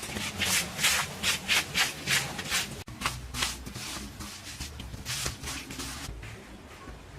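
Rhythmic rubbing strokes, about three a second, thinning to a few scattered strokes after about three seconds.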